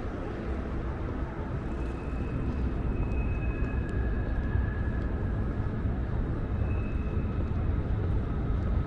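Outdoor city ambience: a low rumble that slowly grows louder, with a few faint thin high tones held for a second or so.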